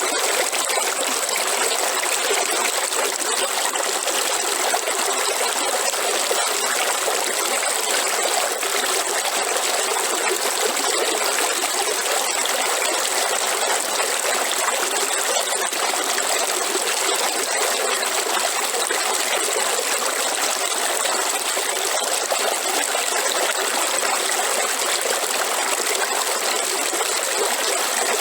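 A river or stream flowing steadily: continuous rushing and trickling water, with a thin, steady high-pitched tone running over it.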